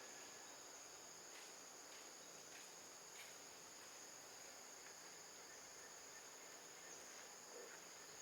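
Faint, steady high-pitched drone of insects, with a few faint clicks.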